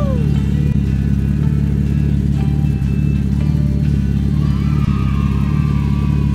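A toy vehicle's electronic engine sound playing a steady, low, pulsing rumble, with faint higher tones over it.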